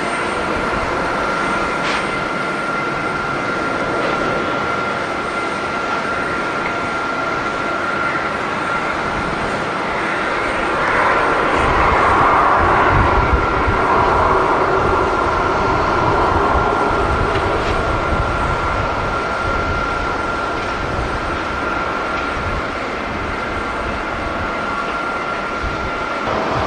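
Jet airliner engines running with a steady high whine over a broad rush; the sound swells with a deeper rumble about halfway through, then eases, and the whine stops near the end.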